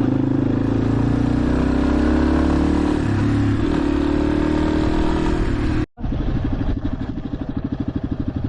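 Motorcycle engine running under way, its pitch rising slowly as it gathers speed. It cuts off abruptly about six seconds in, and a motorcycle engine follows at lower revs with a fast, even pulsing beat.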